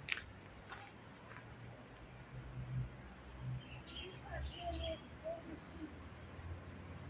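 Birds chirping outdoors: a scatter of short high chirps, with a few lower whistled notes mixed in, starting about three seconds in, over a faint low rumble.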